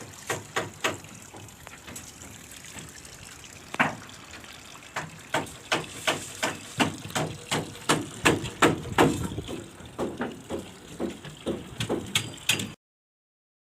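Hammering: a few separate blows, then a steady run of about three sharp blows a second that stops abruptly near the end.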